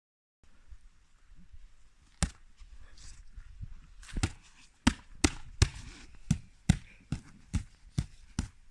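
A series of sharp thumps over faint background noise: one about two seconds in, then a steady run of about two and a half a second from about four seconds in.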